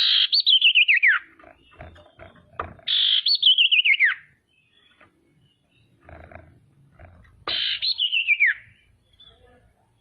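Female common iora (sirtu, cipoh) calling: three wavering, trilled whistles, each falling in pitch over about a second, a few seconds apart.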